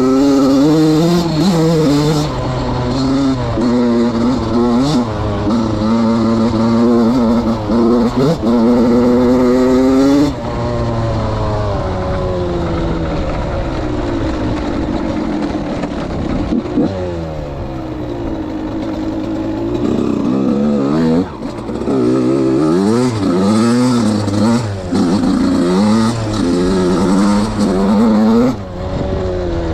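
Suzuki RM85's single-cylinder two-stroke engine being ridden, revving up and shutting off again and again as it runs through the gears. It has a long, slower pull in the middle, then quick, repeated revving near the end.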